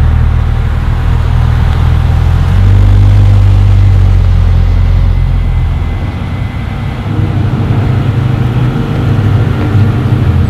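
Novitec Ferrari F12 N-Largo S's V12 engine running at low revs as the car drives slowly by. The note steps up louder about two and a half seconds in, eases off around six seconds, then builds again.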